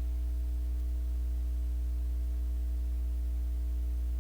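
Steady low electrical hum with a fainter buzz of higher tones above it, picked up through the microphone recording chain and running unchanged.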